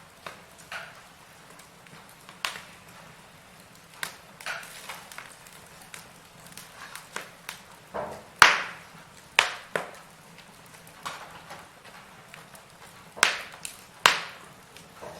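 Firewood burning in a fireplace: irregular sharp crackles and pops over a faint steady hiss, the loudest pop a little past halfway.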